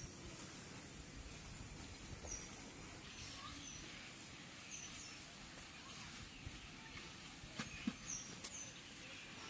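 Quiet rural outdoor ambience with a bird giving short, high chirps every second or so, and a couple of sharp knocks near the end.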